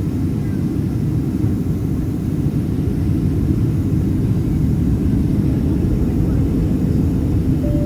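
Steady low rumble of an airliner cabin, a Boeing 767-300ER, in flight: engine and airflow noise heard from a passenger seat.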